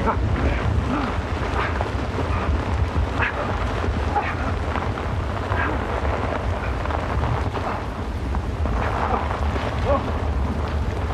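Heavy, steady downpour of rain with a continuous deep rumble beneath it.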